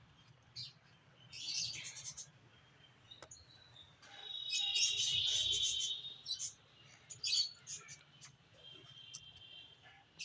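High-pitched bird-like chirping and twittering, with a long trilling call about four seconds in and a shorter one near the end, between short hissy chirps.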